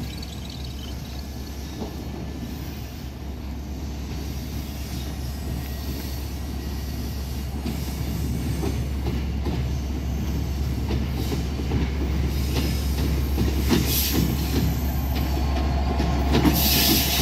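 Diesel locomotive hauling a passenger train as it approaches, its low engine drone and the rumble of the train on the rails growing steadily louder. Brief high hissing sounds from the rails come in near the end.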